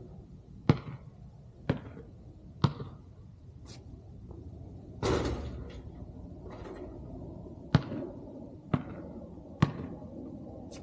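A basketball bouncing, with a sharp bounce about once a second in two runs and a louder, longer hit about five seconds in.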